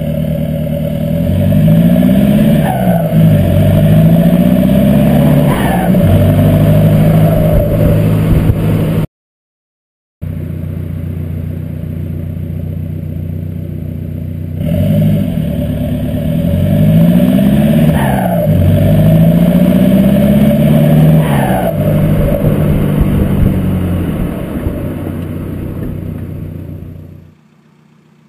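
Seat Leon TDI 150's 2.0-litre four-cylinder turbodiesel with an open, straight-through exhaust, revved again and again from idle, each rev rising and falling back. A second of silence cuts in about nine seconds in, and the sound drops away near the end.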